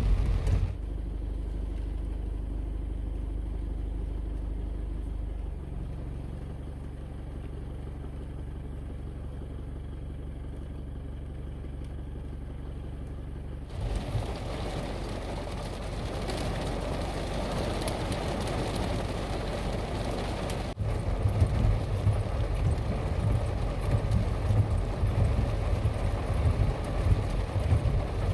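Steady low hum of a vehicle heard from inside. About fourteen seconds in, a broad rushing noise of air, rain or running water comes in. After a brief break about twenty-one seconds in, it turns louder and gusty, buffeting the microphone.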